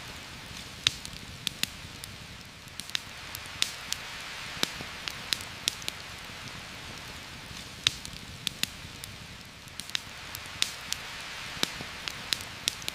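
Steady rain hissing, with irregular sharp crackles and pops from a campfire, about one to three a second.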